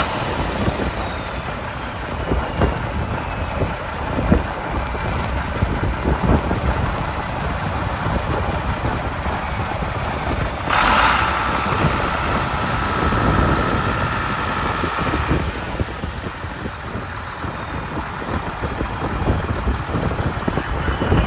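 John Deere 4455 tractor's six-cylinder diesel engine running at idle. A higher-pitched hum joins for a few seconds around the middle.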